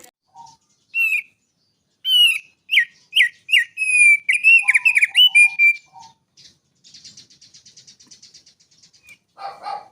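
Mountain prenjak (prinia) singing: loud, quick whistled phrases that slide up and down, then a fast buzzy trill of about ten notes a second. Its song is billed as including mimicry of the straw-headed bulbul.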